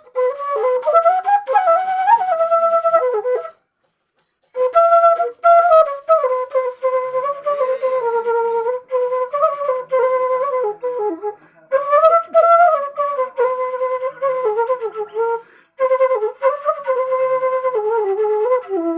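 A seruling, an Indonesian flute, playing a solo melody in phrases, with a pause of about a second roughly four seconds in and brief breaks for breath later.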